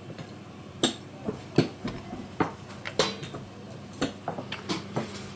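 Utensils clinking and knocking against plates and serving dishes as food is served and eaten: a string of sharp, irregular clinks, roughly two a second.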